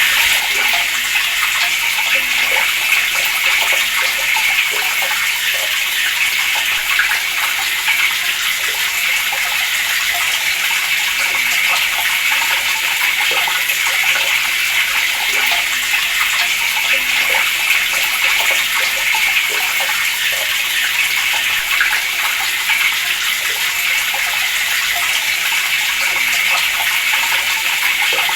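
Water running steadily from an open tap, a constant splashing rush with no pauses.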